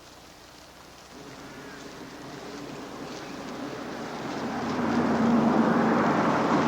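A locust swarm in flight: a rushing, whirring noise of countless wings with a low hum under it, swelling steadily louder over the first five seconds and then holding.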